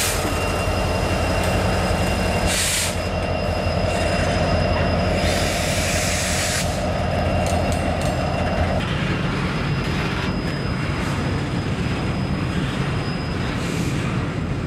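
Diesel-hauled freight train of double-stack container cars rolling past close by: a steady low rumble, with wheels squealing in thin high tones that fade out about two-thirds of the way through. Two short bursts of hiss come in the first seven seconds.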